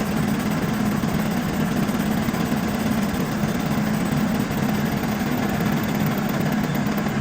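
Metal lathe running with a steady low hum from its motor and drive, unchanging throughout.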